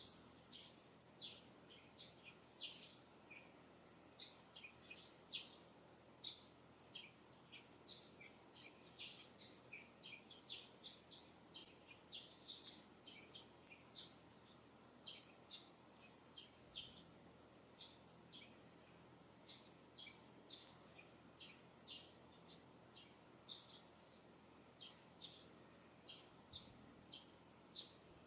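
Distant songbirds chirping and twittering, many short high calls overlapping without a break, over a faint steady hiss of breeze.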